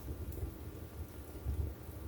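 Wood fire burning in a fireplace: a low, fluttering rumble of the flames with a couple of faint crackles.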